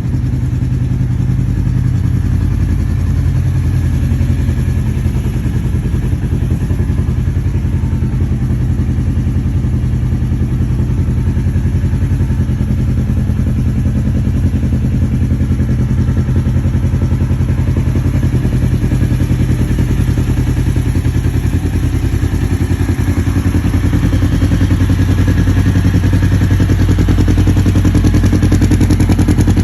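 Kawasaki KRX1000's parallel-twin engine running steadily at low speed through an aftermarket Graves exhaust, getting a little louder over the last few seconds.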